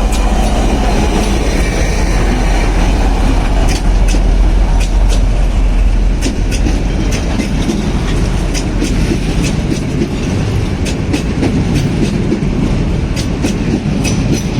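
Train running on rails: a loud, steady rumble with many sharp clicks of the wheels passing over rail joints.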